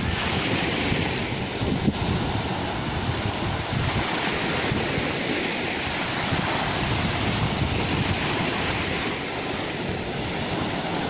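Sea waves washing onto the shore: a steady rush of surf that swells and eases gently.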